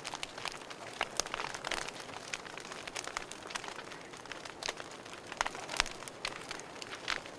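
Wood fire crackling in a fireplace: irregular sharp pops and snaps, several a second, over a steady hiss of burning.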